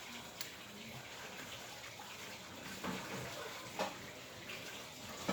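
Steady hiss with a few light clicks of an eating utensil against a bowl of noodles, one about half a second in and another near the end.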